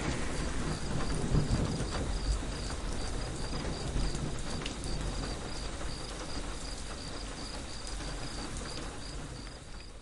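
Steady rain, with the low rumble of thunder dying away at the start and an insect chirping in a fast, even run of short pulses throughout. The whole sound slowly fades toward the end.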